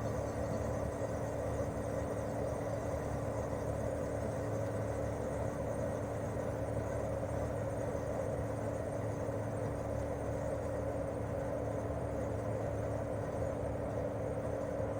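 Daikin R28RMV mini-split outdoor unit running steadily in cooling mode. Its propeller fan makes a steady rush of air over a constant hum and tone from its twin-cylinder swing compressor.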